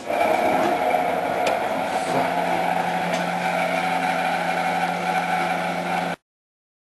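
Privileg Ergonomic 1600 S front-loading washing machine running with its drum turning at speed, a steady mechanical whine over a rumble, its drum bearing badly worn. A lower hum joins about two seconds in, and the sound cuts off suddenly about six seconds in.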